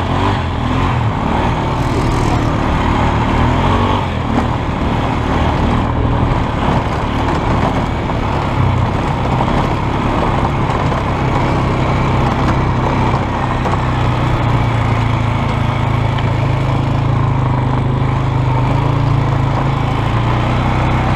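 Polaris Sportsman 500 H.O. ATV's single-cylinder four-stroke engine running under way, its pitch rising and falling a little with the throttle.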